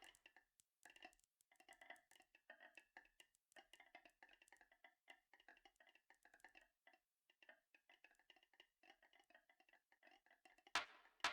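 Marbles rolling and clicking along a marble run track in a fast, irregular patter of faint ticks, with two louder knocks near the end.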